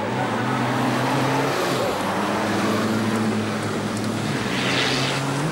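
Racing trucks' diesel engines running hard on the circuit. The engine note dips and climbs again about two seconds in.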